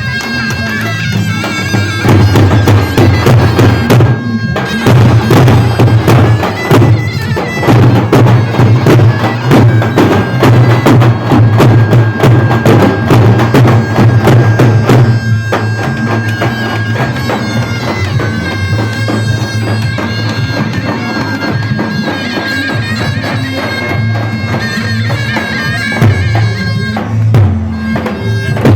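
Davul and zurna playing halay dance music: the zurna's shrill reed melody holds over the loud, steady beat of the double-headed davul drum, which drops briefly about four seconds in and eases after about fifteen seconds.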